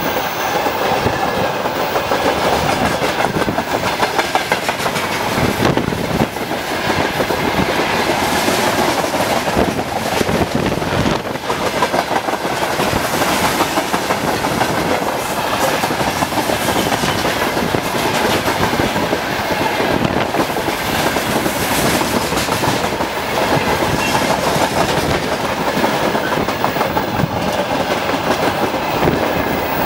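Open-top freight wagons of a long freight train rolling past close by: a steady loud rumble and rattle of the wagons, with many clacks from the wheels on the rails.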